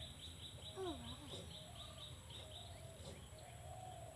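A bird chirping rapidly and repeatedly, about five high chirps a second, stopping about two and a half seconds in. A brief wavering cry comes about a second in, over a faint steady low rumble of outdoor background noise.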